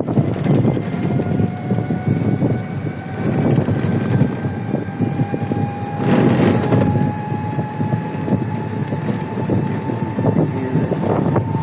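Electric tourist buggy on the move: a steady thin motor whine that slowly rises in pitch as it gathers speed, over a continuous rumble of tyres and wind.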